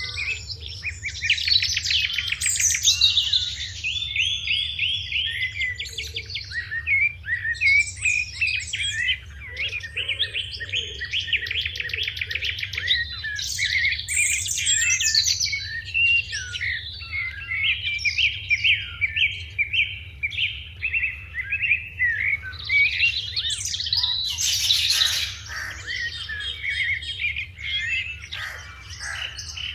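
Sparrows chirping: many rapid, overlapping chirps and short trills, with a brief harsher burst near the end.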